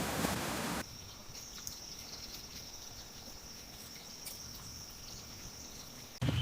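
A rushing noise cuts off abruptly under a second in. It gives way to a quieter, steady high-pitched trill of insects such as crickets, with a few faint clicks. Just before the end it cuts back to a louder, deeper rushing noise.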